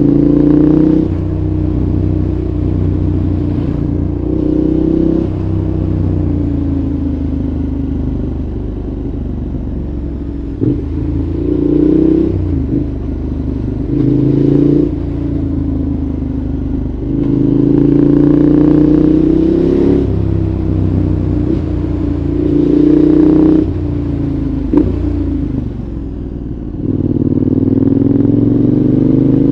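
KTM 1190 Adventure's V-twin through a Giannelli exhaust with its dB killer fitted, rising in pitch and getting louder on a series of short accelerations. Between them it eases off, with the pitch falling on the overrun. A few sharp clicks come through, around a third of the way in and again later.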